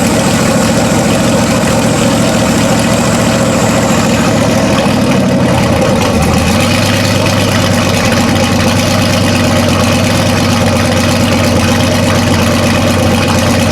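Turbocharged 6.0 LS V8 running loudly at idle just after catching on its first start-up. The idle note changes and steadies about six seconds in.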